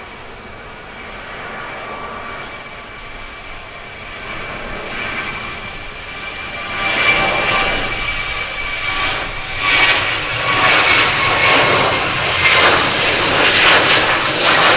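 Jet engines of a Qatar Airways cargo plane running: a steady high whine under a roar that swells about halfway through and grows louder toward the end.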